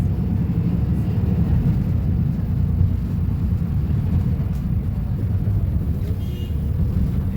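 Volvo B250RLE bus's diesel engine running with a steady low rumble.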